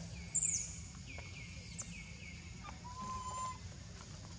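Birds calling: high whistled notes that slide downward, loudest about half a second in, over a run of short repeated notes, then a steady, lower whistle around three seconds in.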